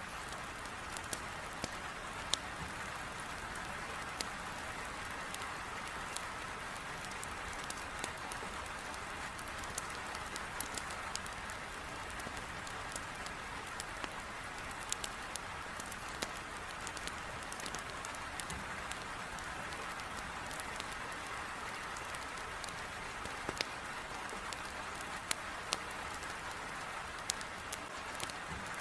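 Heavy rain beating on a window as a steady hiss, with a wood fire in a fireplace crackling in scattered sharp pops.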